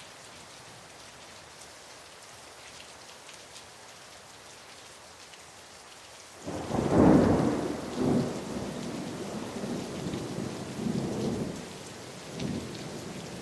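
Steady rain, then about six and a half seconds in a sudden loud thunderclap from a nearby lightning strike, followed by rolling rumbles that swell and fade several times.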